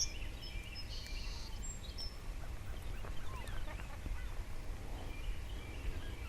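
A chorus of distant gulls and geese calling: many short, scattered calls overlapping, over a low steady background rumble.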